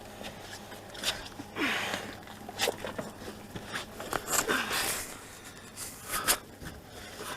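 Hand tools clicking and scraping on metal as the bolts of an engine-bay bracket are worked loose: a series of short, separate clicks and rasps.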